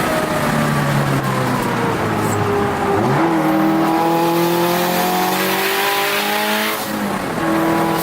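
Turbocharged Subaru WRX STi flat-four engine heard from inside the car at speed. The revs fall for about three seconds, then jump sharply on a downshift. The engine then pulls at a steady high pitch until a shift near the end drops the note lower.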